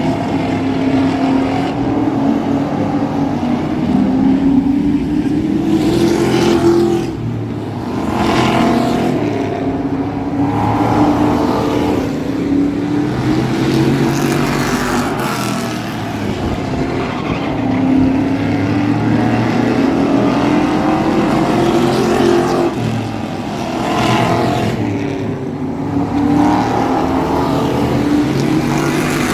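Thunder Truck race truck engine at racing speed, its pitch climbing for several seconds and then dropping, over and over about every eight seconds, as it accelerates down the straights and lifts for the turns of the oval.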